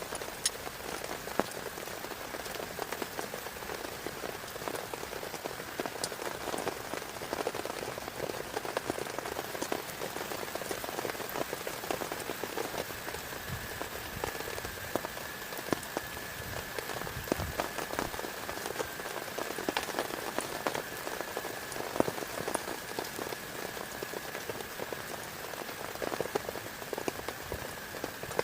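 Steady rain falling on a camping tarp, with many separate drops striking close by.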